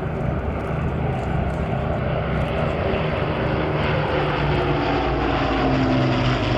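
Avro Lancaster's four Rolls-Royce Merlin V12 piston engines droning steadily in flight during a display flypast. The sound grows gradually louder, and the engine note falls slightly near the end as the bomber passes.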